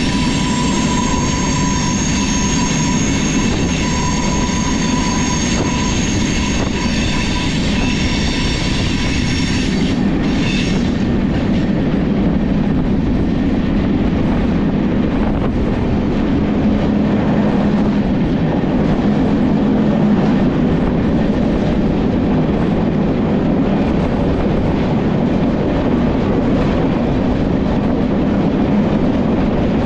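A train running on rails, with a high, multi-toned wheel squeal over steady track noise that stops about ten seconds in. After that comes a steady rumble of wheels on track.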